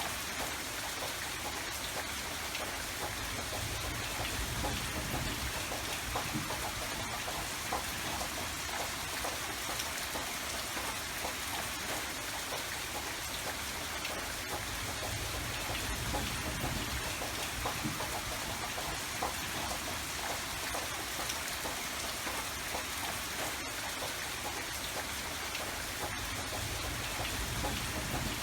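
Steady rain falling, a dense patter of drops on surfaces with a low rumble that swells and fades now and then.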